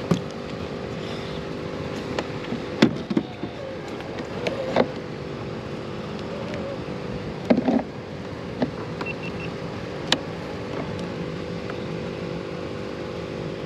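An engine running steadily at an even pitch, with a few short knocks and bumps over it.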